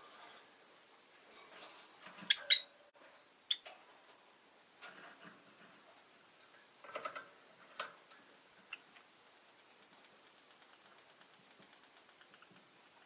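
Rosy-faced lovebirds giving short, sharp chirps: a loud pair about two seconds in, then a few scattered softer calls, thinning out to quiet in the second half.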